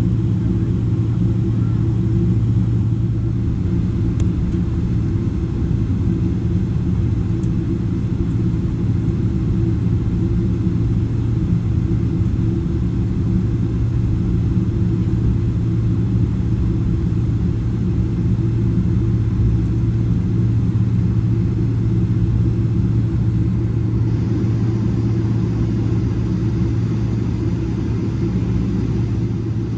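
Steady low cabin rumble inside a Boeing 777-300ER airliner: engine and airflow noise droning evenly, without rising or falling.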